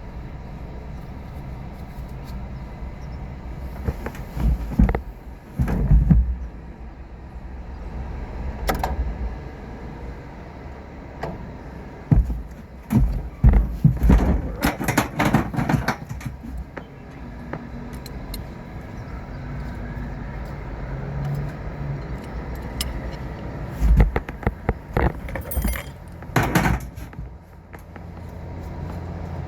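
A steady low machine hum with irregular bouts of metallic clattering and knocks, like tools and parts being handled.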